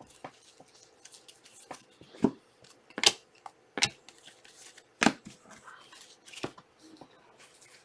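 Trading cards being handled and set down on a table: a string of separate sharp taps and rustles, the loudest at about three and five seconds in.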